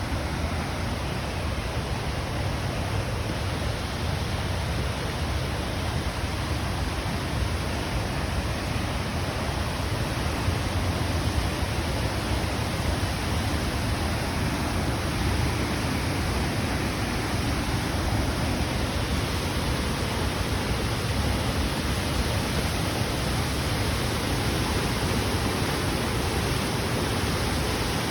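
Flooded mountain stream rushing, a steady, unbroken roar of fast water after heavy rain.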